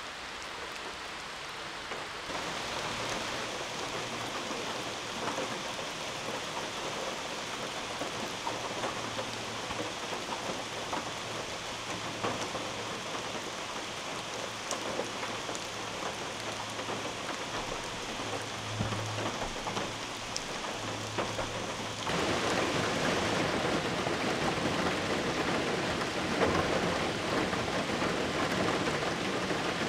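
Heavy rain falling on a tin roof, an even steady patter with a low rumble of thunder beneath it. About two-thirds of the way through, the rain turns louder all at once.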